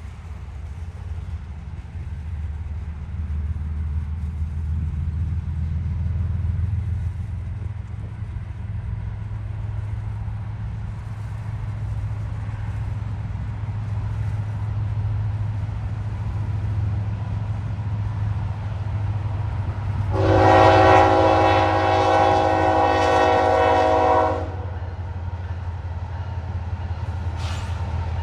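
Norfolk Southern diesel locomotive running by with a steady low engine rumble, then sounding its air horn in one long chord of several tones lasting about four seconds, about three-quarters of the way through.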